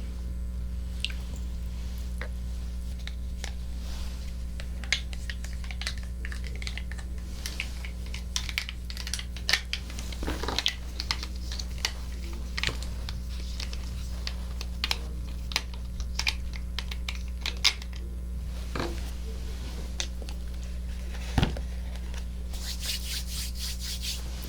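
Close-miked ASMR trigger sounds on a binaural microphone: irregular soft clicks, taps and crackles over a steady low hum, with a dense patch of crackling near the end.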